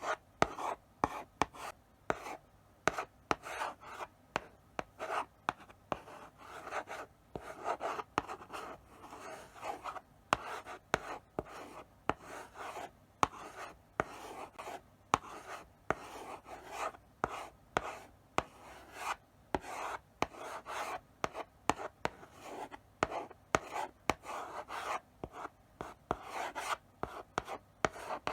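Chalk writing slowly on a blackboard: a steady run of short scratchy strokes, each ending in a sharp tap of the chalk against the board.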